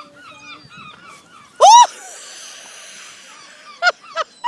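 Seagulls calling over one another, with many quieter squawks throughout, one loud harsh call about a second and a half in, and three short loud calls near the end.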